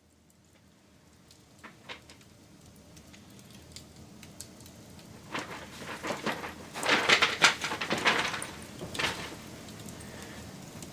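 Wood fire crackling, faint at first, then a run of sharp pops and crackles from about five seconds in, loudest around seven to eight seconds, with one more burst near nine seconds.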